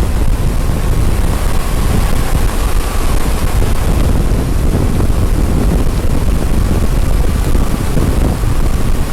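Steady, loud wind rushing over the microphone of a camera on a vehicle moving at road speed, with a deep rumble of engine and road underneath.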